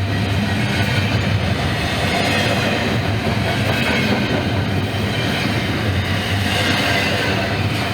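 A Norfolk Southern train rolling past, its steel wheels rumbling and clattering on the rails in a steady, continuous run.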